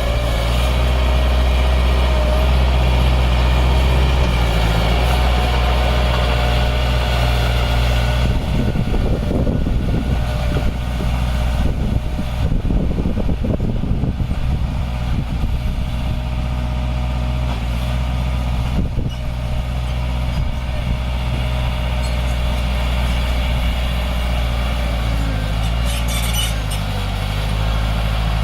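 Heavy diesel earthmoving machinery running steadily, its engine loud and low, with a rougher rattling, scraping noise over the middle stretch.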